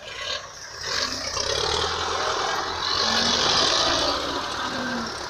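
Tractor engines running hard under load, getting louder about a second in and staying loud.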